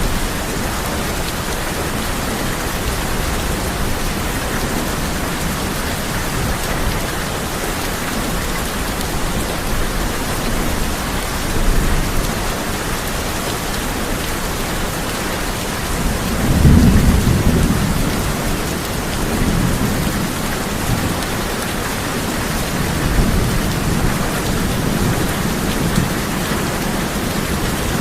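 Steady heavy rain drumming on a tin roof, with low rolls of thunder; the loudest thunder rumbles up a little past halfway and fades over a few seconds.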